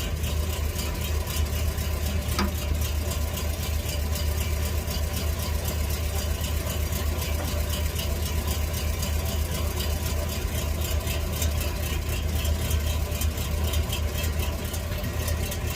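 1948 Ford F5 bus engine idling steadily, kept running as fuel from its long-abandoned gas tank begins to reach the carburetor.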